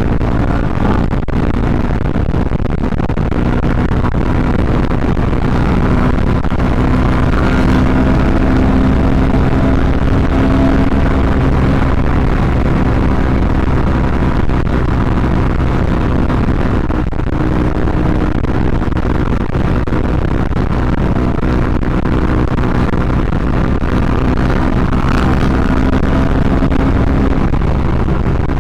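Suzuki DR-Z400SM single-cylinder four-stroke engine running through a full Yoshimura RS-2 exhaust under way at a fairly steady pace. The engine note rises and falls gently, with brief dips about a second in and again past halfway.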